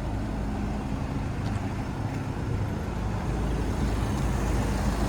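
The 2016 Mitsubishi Fuso FE130 box truck's four-cylinder turbo diesel engine idling steadily.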